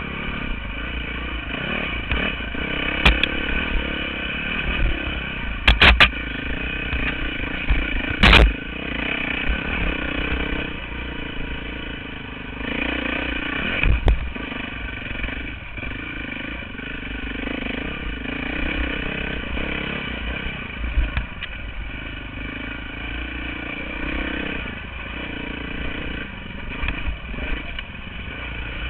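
Dirt bike engine running with the throttle rising and falling through the ride, with a few sharp knocks about 6, 8 and 14 seconds in.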